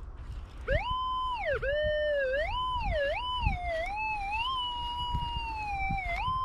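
Metal detector's audio tone wavering continuously, sliding back and forth between a higher and a lower pitch as the search coil passes over a target. Faint low thumps sit underneath.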